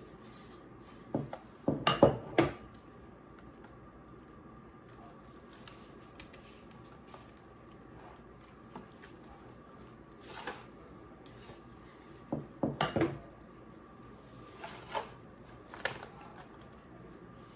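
Scattered knocks and clatters of kitchenware while a raw turkey is handled and patted with seasoning: a cluster of clunks about two seconds in, then a few more now and then.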